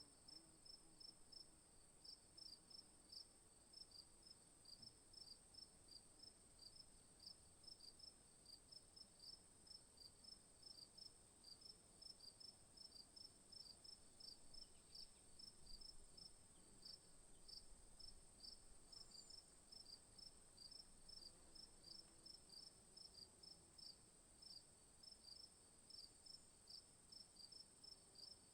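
Faint insect chorus: a regular run of short high chirps, several a second, over a steady high-pitched drone.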